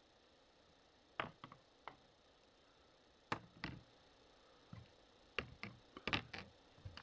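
A series of irregular light knocks and clicks, singly and in quick clusters, against a quiet background.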